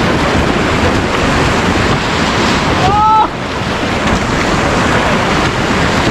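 Rushing river water, a loud steady wash, as on a raft on a fast mountain river. About three seconds in, a brief high rising tone cuts through it.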